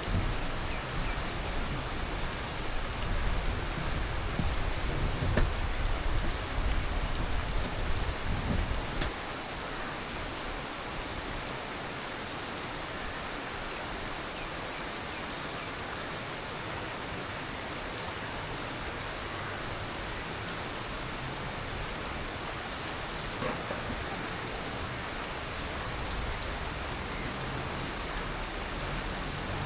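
Heavy tropical monsoon rain falling in a steady, even hiss. A low rumble of thunder runs under it and dies away about nine seconds in.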